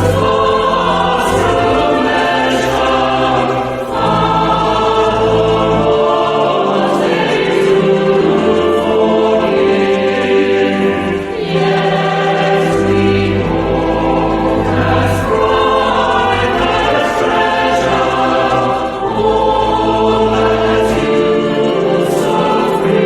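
A choir singing in sustained chords over held bass notes, as church music.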